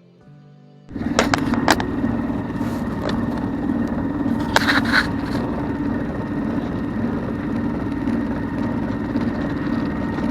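Sailboat's engine running steadily as the boat motors along, heard with a constant low hum and rushing noise that cuts in suddenly about a second in after faint music. A few brief louder noises stand out near the start and about five seconds in.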